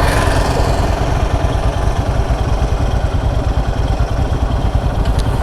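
Hero Xpulse 200 4V's single-cylinder engine idling through an aftermarket MW Performance stainless-steel full-system exhaust, a steady low rumble.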